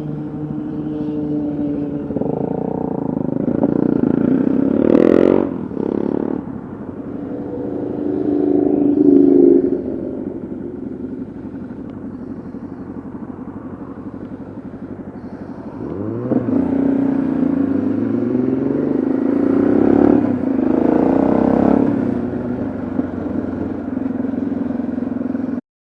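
Yamaha XT660Z Ténéré motorcycle's single-cylinder engine under way, its revs rising and falling several times as it accelerates and eases off. A brief sharp noise cuts across about five seconds in.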